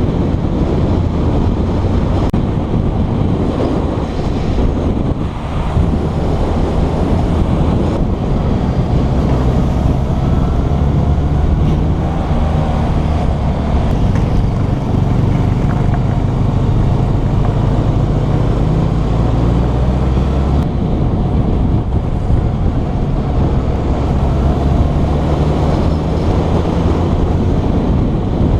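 Motorcycle engine running on the move with heavy wind noise across the microphone. The low engine note changes pitch several times, around 5, 9 and 21 seconds in.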